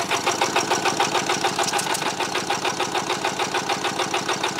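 Kawasaki STX 1100 jet ski's three-cylinder two-stroke engine being cranked over on its starter for a compression test of the center cylinder. It makes a steady rhythmic churning at about six pulses a second. The center cylinder reads 119 psi.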